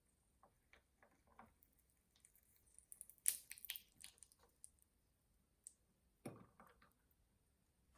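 Faint, scattered small clicks and light rustling of things being handled, with a brief burst of crisp crinkly clicks about three seconds in and a soft thump just after six seconds.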